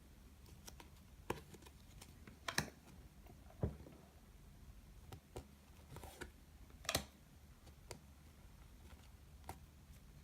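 Faint, scattered clicks and light taps of trading cards being handled and flipped through by hand, with a sharper snap every second or two.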